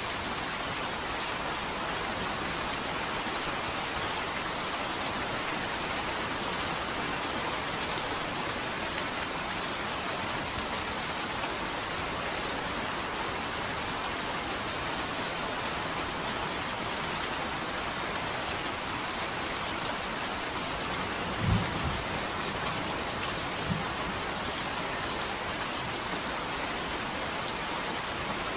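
Steady, even rain falling. Two short low thuds come about three quarters of the way through, the first louder than the second.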